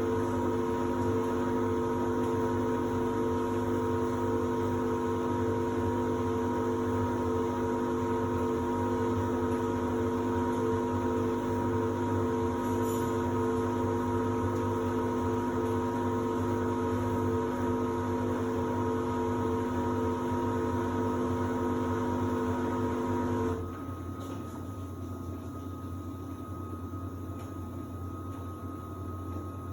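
Samsung WD70T4047CE washer-dryer running in its drying phase with a steady, even machine hum. About 23 seconds in, part of the hum cuts off suddenly, and a quieter hum carries on.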